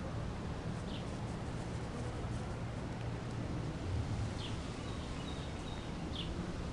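Outdoor backyard ambience: a steady low rumble, with a bird giving three short, high, falling chirps.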